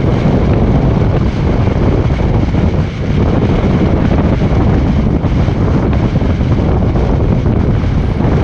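Steady road and wind noise of a car being driven, heard from inside the cabin, with a brief dip about three seconds in.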